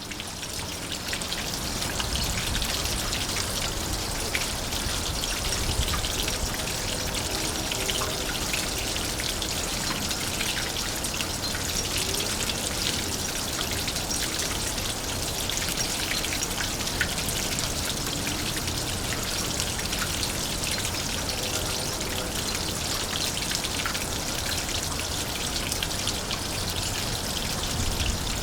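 Water spattering and trickling down a pure copper funnel-cup rain chain: a steady patter of many small drops.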